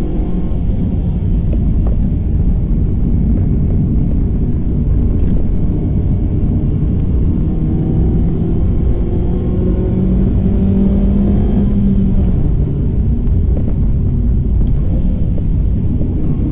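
Proton Inspira's four-cylinder petrol engine pulling hard uphill under heavy load, with steady tyre and road rumble, heard from inside the cabin. The engine note climbs in pitch about two thirds of the way through, then drops back.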